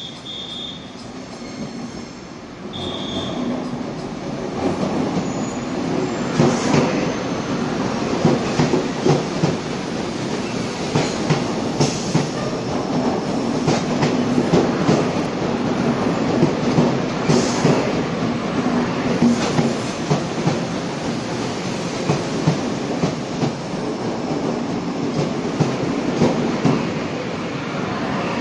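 Taiwan Railway EMU500 electric commuter train rolling along the platform track, its wheels clacking regularly over rail joints. Two short high squeals come in the first few seconds, then the rolling noise swells and stays loud.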